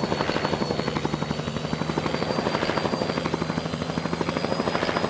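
Helicopter rotor chopping at a steady beat of about six or seven pulses a second, over a steady low hum and a faint high whine.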